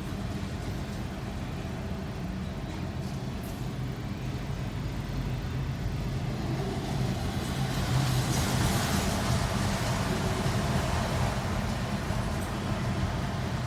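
CSX ES44AH diesel-electric locomotive's GEVO V12 engine running as it leads a freight train, a steady low rumble that grows louder and hissier as it passes about halfway through, then eases off.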